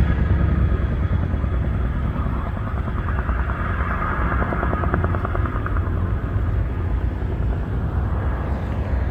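Boeing CH-47F Chinook tandem-rotor helicopter flying over: a steady low rumble with a fast, even rotor beat that is clearest in the middle of the pass.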